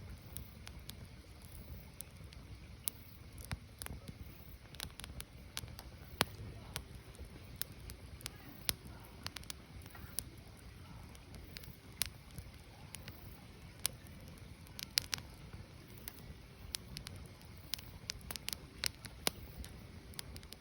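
Firewood burning: a steady crackle of irregular sharp pops and snaps, some much louder than the rest, over a low steady rumble.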